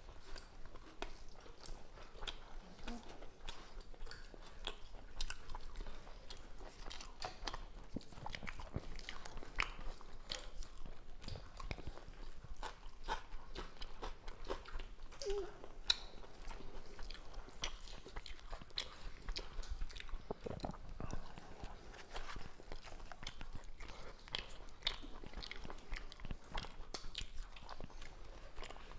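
People eating chicken curry with rice and roti by hand, close to the microphone: chewing and mouth noises with many small, irregular clicks and smacks.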